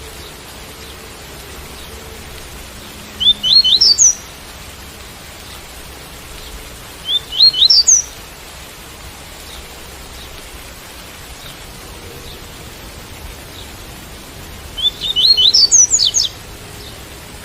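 Double-collared seedeater (coleiro) singing the tui-tui song type: three short phrases of quick rising notes, each about a second long, over the steady hiss of rain.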